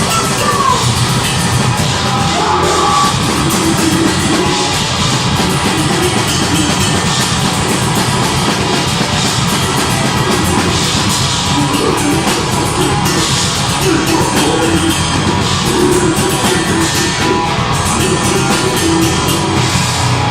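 Deathgrind band playing loud and live: drum kit and guitars in a dense, unbroken wall of sound.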